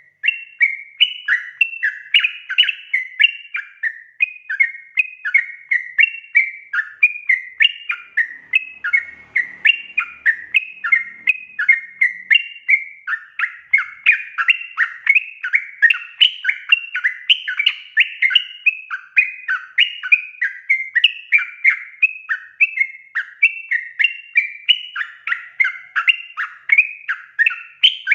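Yellow-vented bulbul (trucukan) calling and singing hard, a continuous run of quick bubbly chattering notes, about two to three a second. This is a lure call meant to draw other trucukan to sing.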